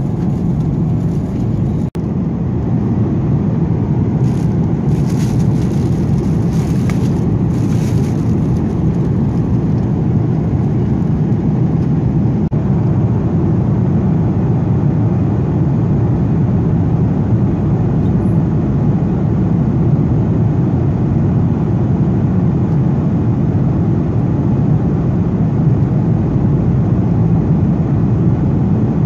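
Steady low rumble of an Airbus A330-300's engines and airflow heard inside the passenger cabin, with a brief drop in level about two seconds in.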